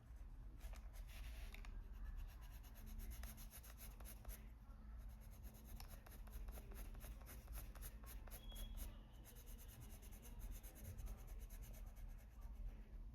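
Faint scratching of a Faber-Castell Polychromos coloured pencil on paper, laid down in rapid short shading strokes with a couple of brief pauses.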